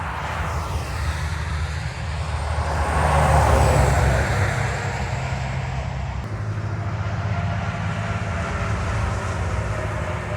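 Tractor-trailer passing on the highway: engine and tyre noise swell to a peak about three to four seconds in and fall away, leaving a steady low engine drone.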